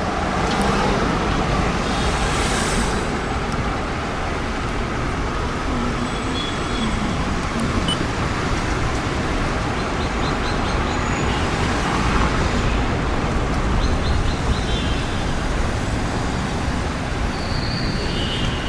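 Steady rumble and hiss inside an Airbus A320-232 airliner's cabin, the noise of the aircraft's engines and air systems heard from a front window seat. A few faint, short high tones sound over it now and then.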